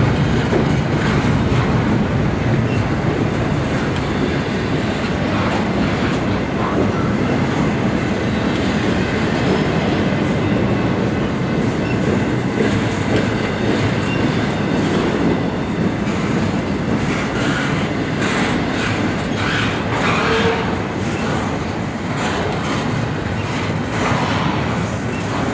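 Intermodal freight train's cars rolling past at steady speed: a continuous rumble with wheels clicking over the rail joints.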